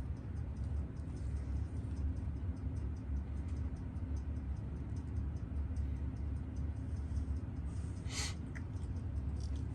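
Fast, even, faint ticking, several ticks a second, over a steady low hum, with one sharp click about eight seconds in.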